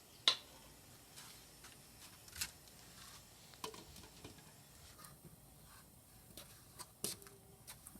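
A few scattered light clicks and knocks against a quiet room background, the sharpest about a quarter second in and another shortly after seven seconds.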